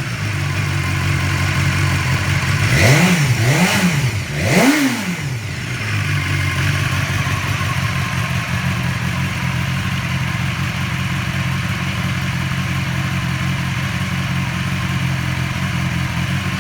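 BMW S1000XR inline-four engine with an Akrapovic muffler, idling, then revved in three quick throttle blips about three to five seconds in, the last one going highest, before dropping back to a steady idle.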